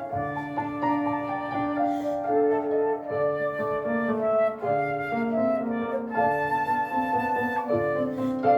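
Flute playing a slow lyrical melody in held notes, with piano accompaniment.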